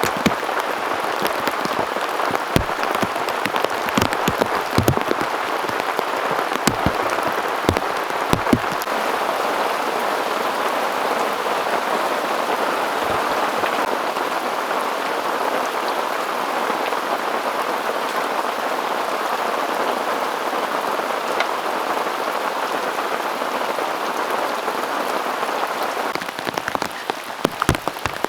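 Heavy rain falling steadily, with single large drops striking close by, many in the first several seconds and again near the end, when the steady hiss eases a little.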